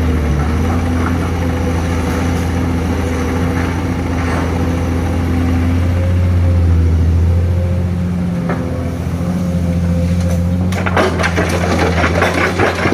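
Heavy dump truck's diesel engine running with a steady low drone. Near the end a rapid clattering rattle joins in.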